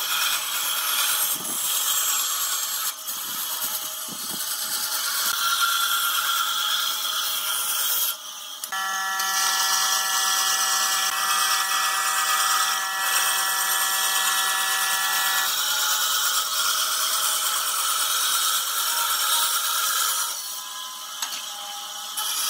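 Woodworking power tools working wood, a loud, even hiss. About a third of the way in there is an abrupt break, and then a steady multi-tone whine joins the hiss for about seven seconds before dropping away.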